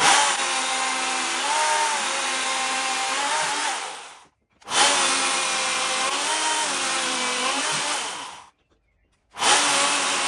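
Electric power tool cutting mortises in a green oak beam: three runs of about four seconds each, with short stops between them, its motor pitch dipping as it bites into the wood.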